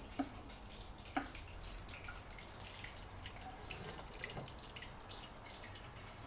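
Light kitchen sounds: two sharp knocks about a second apart, then faint scattered clicks and drips.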